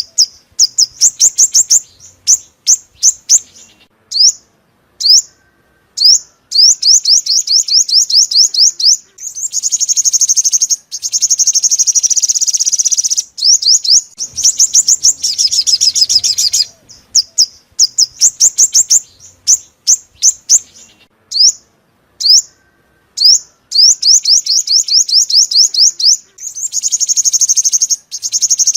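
Sunbird song: loud, high-pitched runs of rapid, sharp downslurred notes alternating with fast buzzy trills, broken by short pauses.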